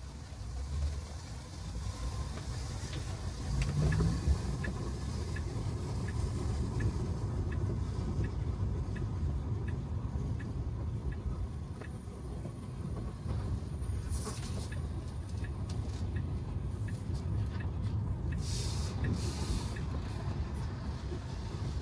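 Road and tyre noise of a Tesla Model 3 driving on a wet road, a steady low rumble. A run of faint, evenly spaced ticks, about one and a half a second, lasts several seconds, and two short hissing rushes come near the end.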